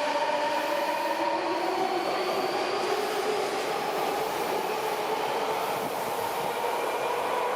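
A subway train on the Tokyo Metro Chiyoda Line, its electric traction motors and inverter whining over a rumble of wheels. The whine rises in pitch during the first few seconds and then levels off, as when a train accelerates.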